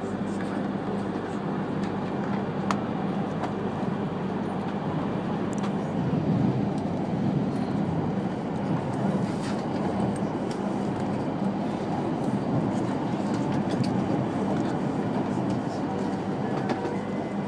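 Cabin noise of an E3-series Shinkansen under way in the tunnel out of Ueno: a steady rumble of wheels and running gear with a constant low hum beneath it and a few light clicks.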